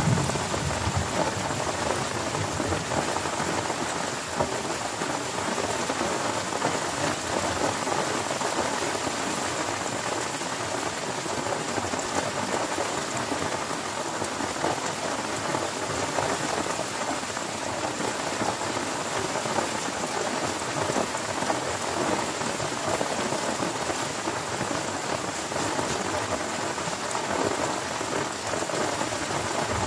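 Heavy rain falling steadily and evenly. A low thunder rumble fades out in the first second, and another begins right at the end.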